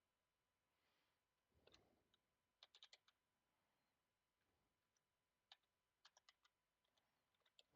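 Faint computer keyboard typing: a few short runs of keystrokes separated by pauses, as code is written for buzzer and motor control.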